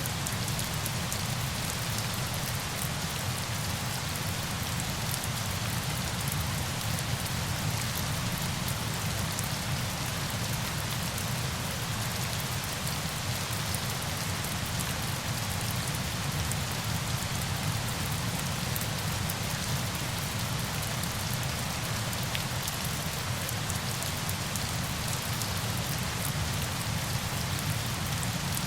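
A steady, even rush of falling water, like heavy rain, with a deep low rumble and fine drop patter, unchanging throughout.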